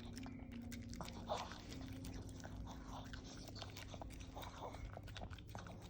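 Small Maltese dog eating soft brown rice and sweet pumpkin porridge from a bowl: faint quick mouth clicks, licks and chewing smacks.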